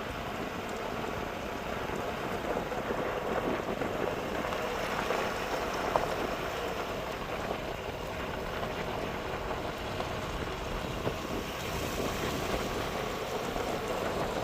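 Ford Super Duty pickup truck driving on an unpaved forest road: a steady rushing of tyre and road noise.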